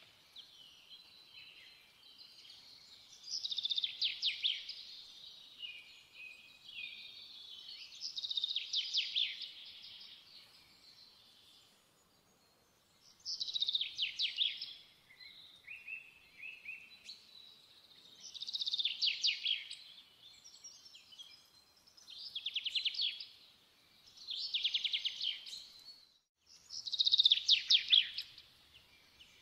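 A songbird singing: about seven short phrases of rapid, high trills, each a second or two long, with pauses of a few seconds between them.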